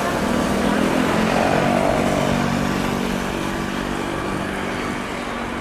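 Jet airliner engines running, a steady sound with a low hum that slowly fades away.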